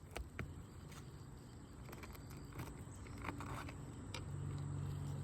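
A faint, low engine hum that grows louder over the second half, with a few faint clicks.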